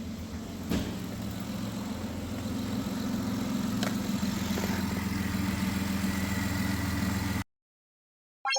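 2008 Dodge Grand Caravan's V6 engine idling steadily after its rough-idle misfire was cured by repairing the MAP sensor and its wiring. It cuts off abruptly about seven and a half seconds in, and a short chime starts just at the end.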